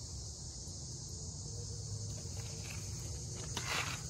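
Crickets chirping in a steady chorus, with a brief scuff about three and a half seconds in.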